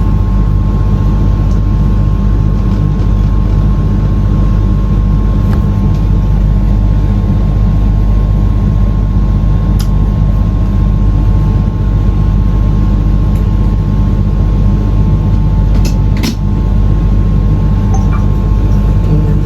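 Steady low machine rumble with a constant thin whine above it, broken by two brief clicks, one about ten seconds in and one near the end.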